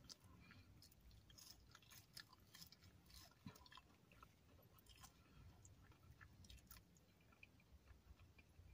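Faint chewing of a mouthful of food, with scattered soft, wet mouth clicks.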